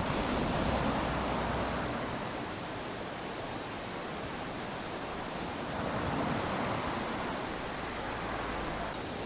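Small waves lapping onto a sandy beach: a steady wash of surf that swells twice, once at the start and again about six seconds in.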